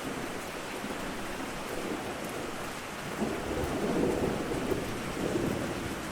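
Steady rain falling, with a roll of thunder rumbling up about halfway through and fading near the end.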